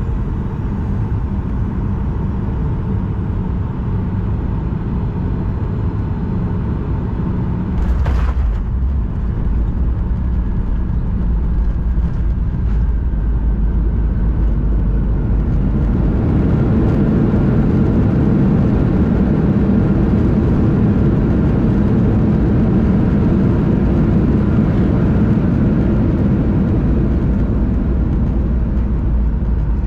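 Boeing 737-900ER cabin noise during landing: a thump about eight seconds in as the wheels touch down, then from about halfway a louder, rougher rumble as the engines go into reverse thrust on the rollout.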